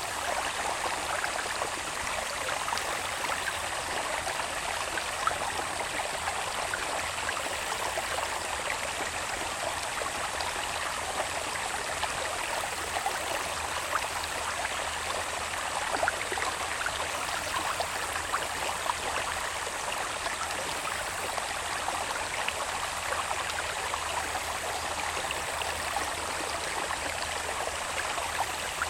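Water babbling steadily in a small irrigation channel running down from the hills into rice fields, with a faint, steady, high-pitched insect trill behind it.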